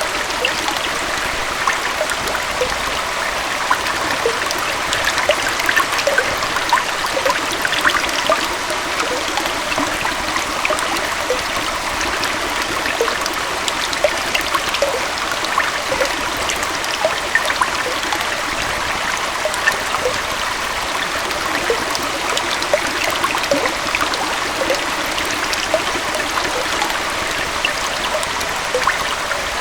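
Small waterfall and stream flowing steadily, a continuous rush of water with many small trickling splashes.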